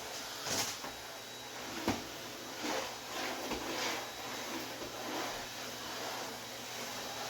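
Cleaning and handling sounds: several short swishing strokes and one sharp knock about two seconds in.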